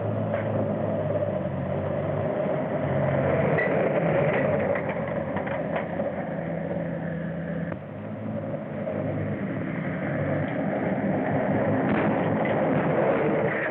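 Train running on the track, a continuous mechanical rumble with a few clatters.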